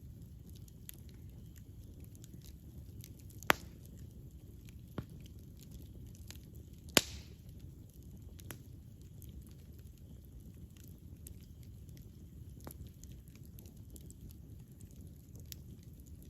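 Wood fire burning with a steady low rumble and scattered faint crackles. It pops sharply twice, about three and a half and seven seconds in, with a softer pop between them.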